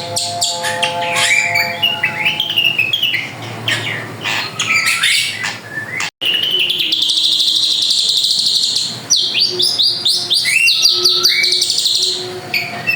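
Drongo singing vigorously: a varied stream of whistles, rising slurs, chirps and harsh rasping notes, broken by a brief sudden gap about six seconds in.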